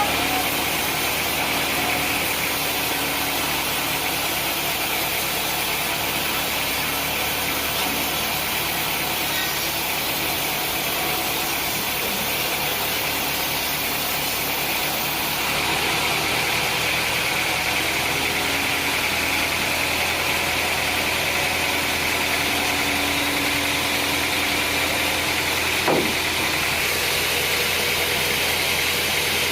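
Sawmill machinery running steadily, a continuous mechanical drone with a constant hum, with one brief knock near the end.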